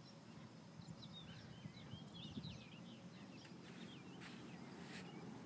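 Faint birdsong: many short, quick chirps clustered through the middle, over a low steady background hum.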